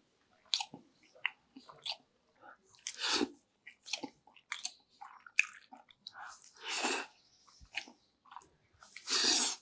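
Close-up chewing of a mouthful of ginataang pako (fiddlehead ferns and pork in coconut milk): wet, clicking mouth sounds. Three louder breathy huffs come about 3, 7 and 9 seconds in.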